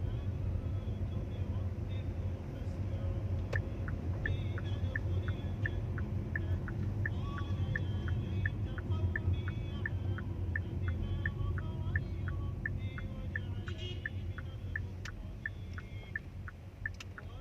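A car's steady low rumble, with an even ticking of about two to three clicks a second that starts a few seconds in.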